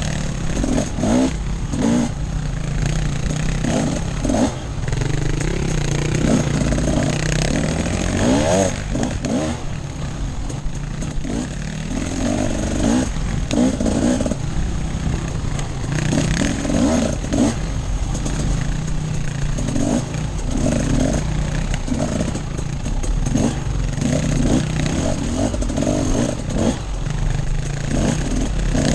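Off-road enduro motorcycle engine being ridden, its revs rising and falling constantly as the throttle is opened and closed, with a sharp rev rise about eight seconds in.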